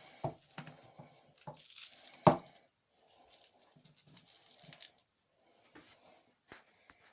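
Handling noises from parts and tools being picked up and set down: scattered clicks and light knocks with rustling between them, and one sharper knock a little over two seconds in.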